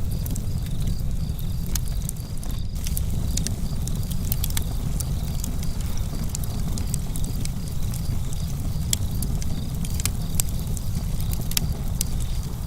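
Campfire crackling, with many sharp irregular pops and snaps over a low steady rumble of the burning fire.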